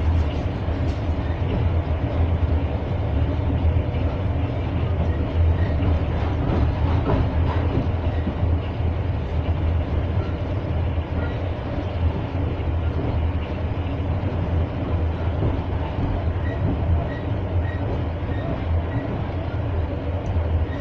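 Steady low rumble of a moving train, heard from aboard, as its wheels run along the track.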